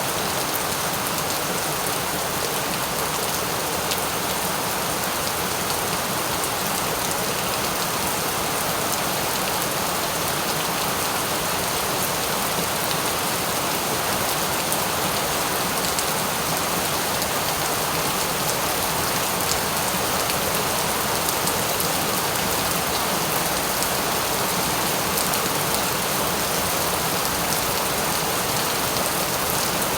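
Steady rain falling and pattering on surfaces, an even hiss with fine drop ticks and no let-up.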